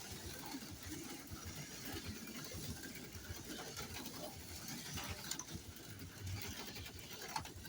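HO-scale slot cars running on the track: the faint whir of their small electric motors with light rapid clicking.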